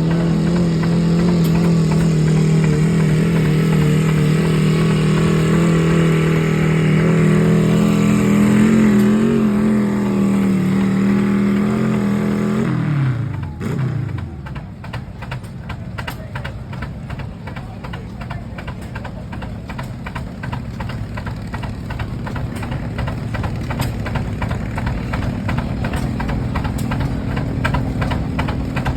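Belt-driven sawmill's circular blade spinning with a steady hum. About 13 seconds in, the hum falls sharply in pitch as the mill slows. Then the slow, even exhaust beats of the two-cylinder Rumely OilPull tractor engines take over, about two a second, growing gradually louder.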